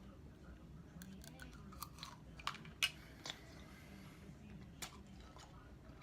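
Chewing a mouthful of hard candy hearts and cereal: a run of irregular sharp crunches, loudest about halfway through.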